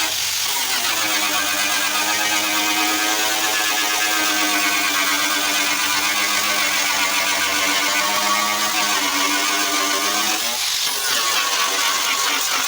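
A motor-driven machine running steadily with a pitched whine, its note dipping briefly at the start and again near the end.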